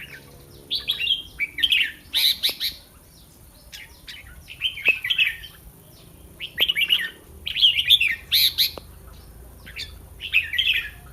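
Red-whiskered bulbul singing, about six short warbled phrases with brief pauses between them.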